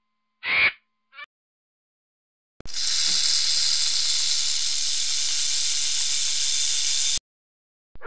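A short harsh animal call about half a second in. Then a rattlesnake's tail rattle: a steady high buzz that starts suddenly between two and three seconds in, lasts about four and a half seconds and cuts off suddenly.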